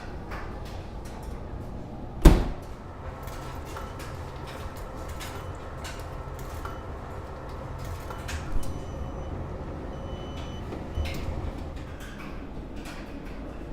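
A door banging shut about two seconds in, followed by a couple of softer knocks and a few short electronic beeps, over a steady low hum.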